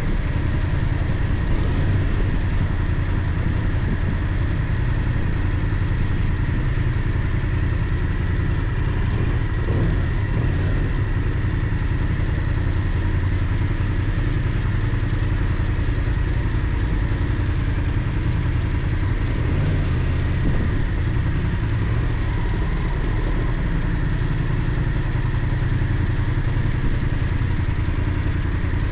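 BMW F 800 GS motorcycle's parallel-twin engine running steadily while the bike is ridden along at an even pace, mixed with steady road noise.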